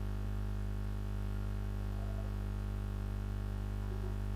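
Steady electrical mains hum with a faint hiss, a low buzz with many even overtones and no change in level.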